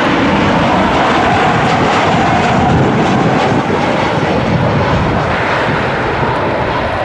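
Jet engines of a Boeing 737-700 airliner passing close: a loud, steady noise with a tone that slowly falls in pitch.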